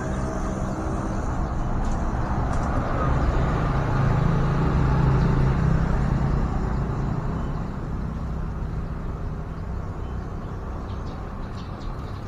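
Road traffic: a motor vehicle's engine hum that swells about three to six seconds in and then fades away as it passes.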